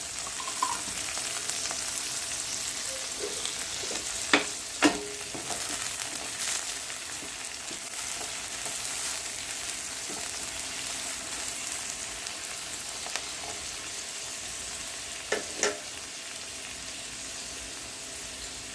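Chopped onions and tomatoes sizzling steadily in hot ghee in a kadai as they are stirred. Two pairs of sharp knocks, about 4 seconds in and again near the end, sound like the stirring utensil striking the pan.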